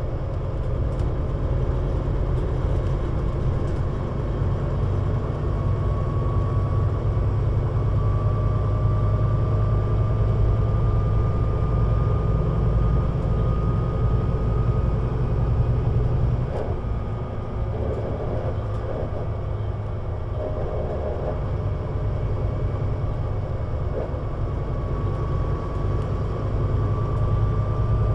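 Scania CN320UA 6x2/2 city bus under way, its engine running with a steady low drone and a thin high whine that rises slowly as the bus gathers speed. About halfway through the engine note drops back, as when the bus eases off, with a few light knocks. The engine builds again near the end.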